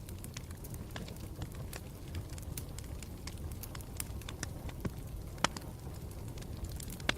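Campfire burning with a steady low rumble and irregular sharp crackles and pops, one louder pop about five and a half seconds in.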